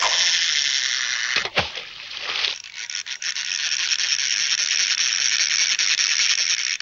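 A dense, steady high-pitched rattle that starts and stops abruptly. It is broken about a second and a half in by a sharp click and a brief drop, then resumes.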